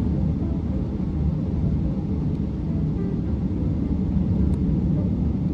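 Steady road and engine noise of a Honda pickup cruising at highway speed, a constant low rumble heard from inside the cab.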